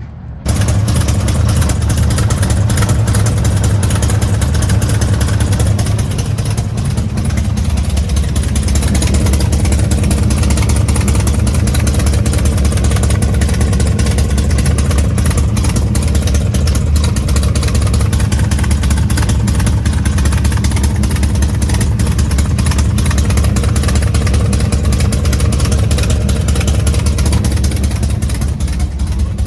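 Ford Mustang GT's ghost-cammed 5.0 V8 idling loud and rough through headers and a Corsa Sport exhaust, with a steady, choppy firing pulse. The exhaust clamps are not yet tightened and are leaking at the headers, which the owner blames for it not sounding its best.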